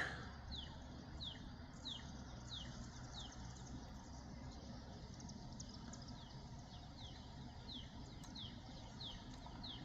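A bird repeating a short, falling chirp about every two-thirds of a second, in two runs with a pause between, over a faint low background rumble.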